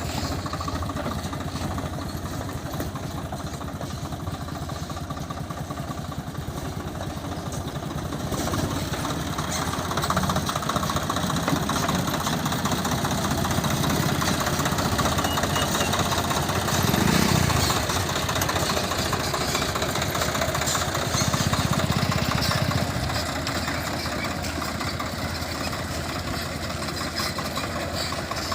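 Swaraj 744 FE tractor's diesel engine idling steadily, a little louder from about a third of the way in with a brief swell around the middle.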